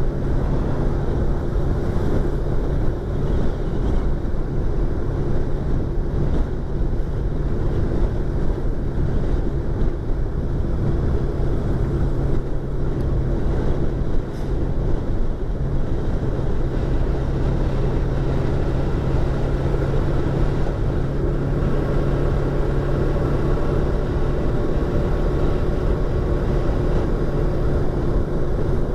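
Yamaha YZF-R25's 249 cc parallel-twin engine running at a steady cruising note while riding, heard from inside the helmet with wind rushing past.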